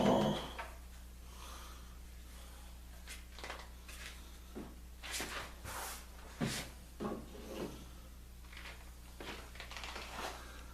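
Scattered light knocks, clicks and rubbing of things being handled in a small workshop, with a heavier thump at the start, over a steady low hum.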